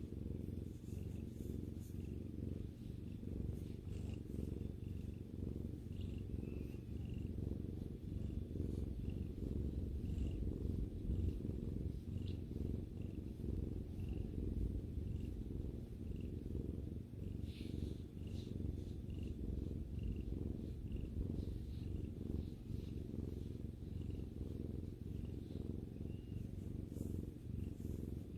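Domestic cat purring steadily and close up, a continuous low rumble.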